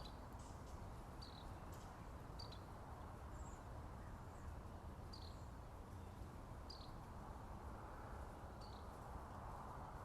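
A bird repeating a short, high chip note every second or two, with a few fainter, higher notes from another bird. Underneath is a faint, steady low rushing background.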